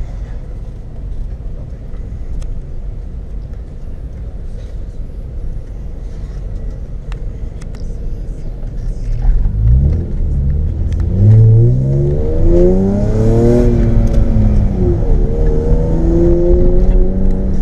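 BMW 2.8-litre M52 straight-six with a straight-piped exhaust, heard from inside the car: a low steady drone for about the first half. Then the revs climb hard under acceleration, drop at a gear change and climb again, getting much louder.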